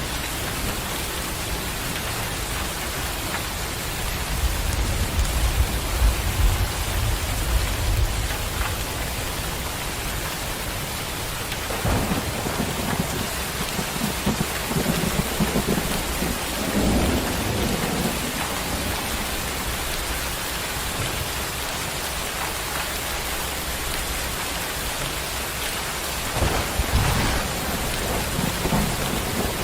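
Steady rain falling, with low rolling thunder rumbling three times: a few seconds in, again from about twelve seconds for several seconds, and near the end.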